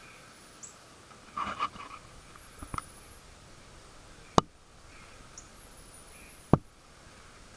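A Kral Puncher Empire XS .22 PCP air rifle firing: two sharp, loud cracks about two seconds apart, the first a little under halfway through. Fainter clicks and rattles come before them.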